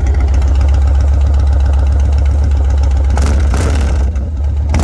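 2006 Yamaha Stratoliner 1900's V-twin idling through a freshly fitted stainless header and muffler, with a steady, deep, pulsing rumble. About three seconds in, a hissing sound rises over it. The engine is still on a tune that doesn't suit the new exhaust.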